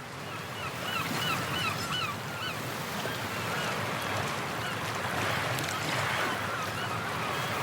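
Recorded sea ambience: waves washing, with a quick series of repeated honking bird calls in the first couple of seconds and a few more later.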